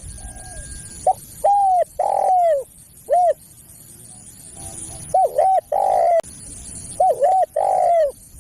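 Spotted dove (tekukur) cooing: two phrases of several rising-and-falling coos each, about two seconds apart.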